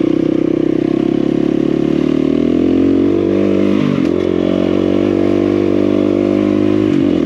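KTM 350 EXC-F dirt bike's single-cylinder four-stroke engine pulling up a hill climb. Its pitch rises slightly in the first few seconds and dips briefly about four seconds in and again near the end.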